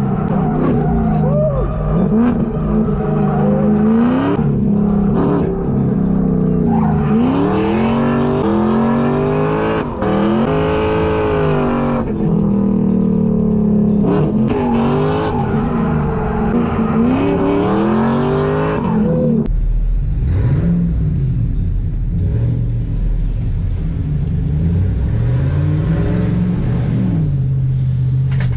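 Drift car engine revving hard through corners, its pitch sweeping up and down again and again with the throttle. About two-thirds of the way through, the sound changes to a deeper, heavier engine note that keeps rising and falling.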